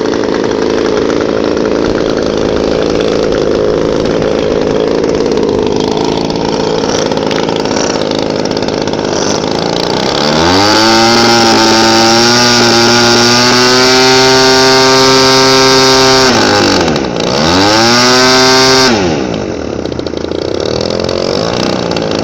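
DLE-20 single-cylinder two-stroke petrol engine of a model Cessna 182 idling, then opened up to a high steady full-throttle whine for about six seconds. It is throttled back briefly, revved up again for a couple of seconds, and drops back to idle near the end.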